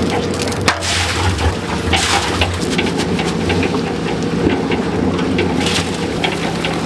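Electric cement mixer running, its belt-driven drum turning and churning a wet concrete mix: a steady motor hum under a constant rattle and hiss of material tumbling inside the drum.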